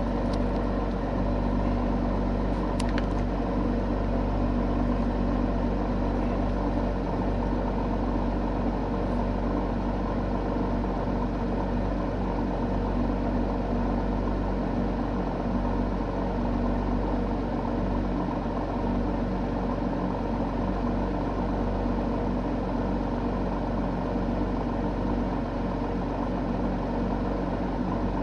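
Porsche 911 GT3 (991) flat-six engine running steadily, its engine and exhaust hum heard from inside the cabin. A faint click sounds about three seconds in.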